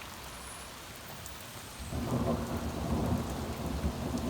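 Heavy rain falling steadily, then thunder breaks in about two seconds in, a loud low rumble that rolls on over the rain.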